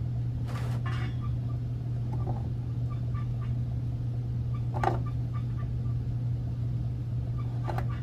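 A steady low hum, with a few short knocks from parts being handled on a water heater's fittings; the clearest knock is about five seconds in.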